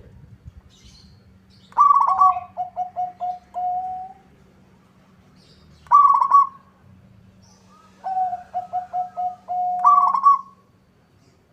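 Zebra dove (perkutut) cooing: two phrases, each a run of short quick coos and a longer held note with a higher note at one end, and a single short call between them. A faint steady low hum runs underneath.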